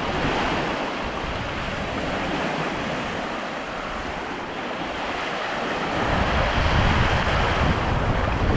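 Waves washing in on the beach with wind buffeting the microphone; the low wind rumble gets heavier about six seconds in.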